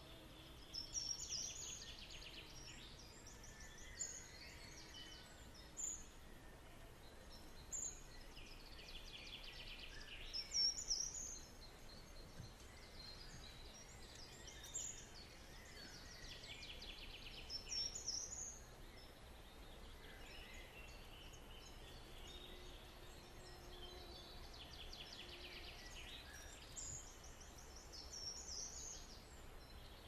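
Birds calling: short bursts of high, rapid chattering notes every few seconds, over a faint steady background noise.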